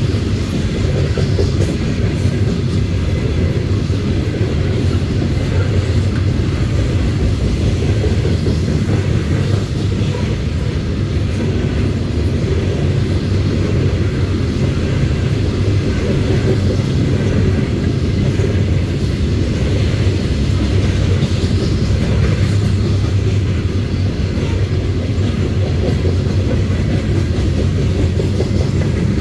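Norfolk Southern coal train of loaded gondolas rolling past on the rails, a steady low rumble that holds throughout.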